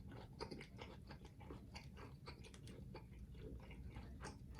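A person chewing a mouthful of steak close to the microphone, heard as a faint, irregular string of small mouth clicks.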